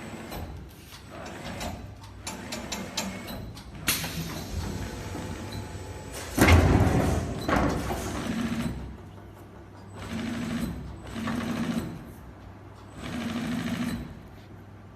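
Mattress tape edge sewing machine stitching in short runs of about a second each, with a louder burst of mechanical noise about six and a half seconds in.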